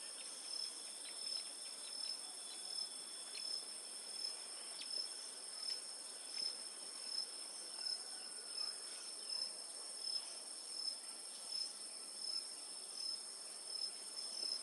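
Steady high-pitched insect chorus of crickets, pulsing regularly about one and a half times a second, with faint short chirps scattered through it.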